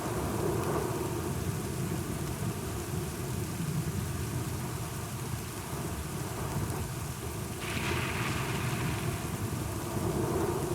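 Steady rain with low rolling thunder rumbling underneath. A sudden brighter hiss rises about three-quarters of the way through and fades again.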